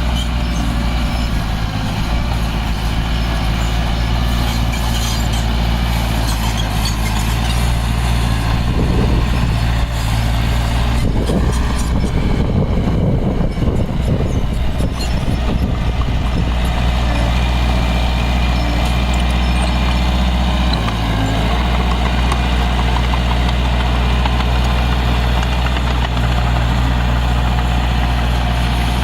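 Diesel engine of heavy earthmoving equipment running steadily with a low hum. For a few seconds in the middle the sound turns rougher and noisier before settling back to the steady note.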